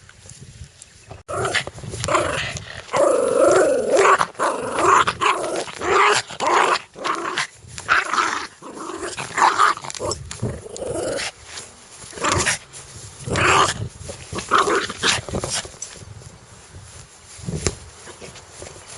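Dog growling aggressively in repeated rough bursts that start suddenly about a second in, with a few short barks mixed in; the bursts thin out and fade toward the end.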